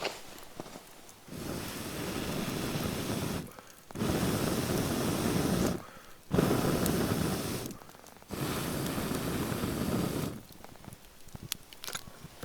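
Someone blowing air into a campfire four times in long breaths of about two seconds each, with short pauses between them.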